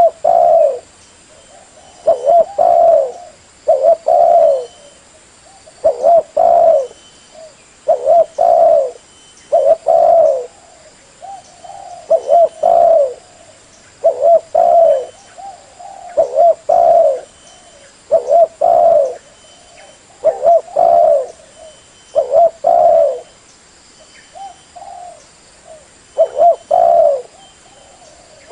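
Spotted dove (terkukur) cooing: a low, hoarse phrase of two or three coos repeated about every two seconds.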